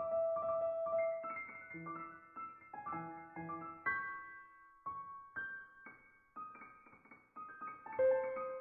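Background music: piano playing a melody over chords, with notes struck every fraction of a second and dying away.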